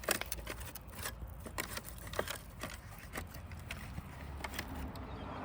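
Irregular light clicks and scrapes as a clogged Roomba robot vacuum is handled and picked at to find what is jamming it.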